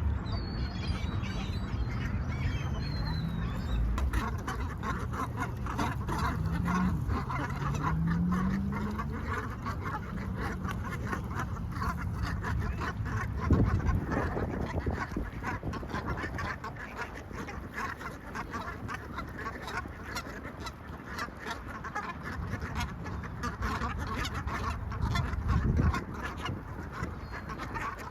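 A flock of ducks calling, many overlapping quacks that go on throughout, over a low rumble.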